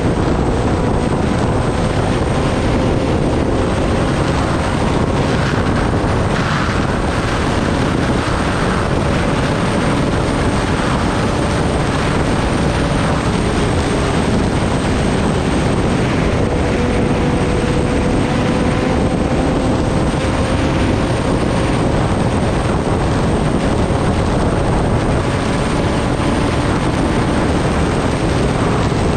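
Kawasaki Ninja ZX-10R's inline-four engine running at a steady cruise, its drone drifting slowly in pitch under loud, constant wind rush on the microphone.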